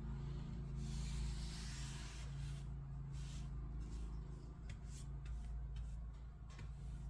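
Hand tool working old paint and finish off a surface. A long scraping stroke starts about half a second in, followed by several shorter strokes and a few light ticks, over a steady low hum.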